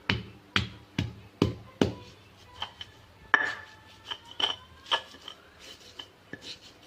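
Kitchen utensils knocking and clinking during food preparation: five sharp knocks about half a second apart, then lighter ringing clinks, like a utensil against a dish or bowl.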